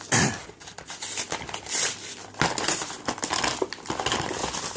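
Plastic-and-card blister packaging for trading cards crinkling and crackling as it is pulled open by hand. There is a loud crackle right at the start, and the crinkling grows busier from about halfway.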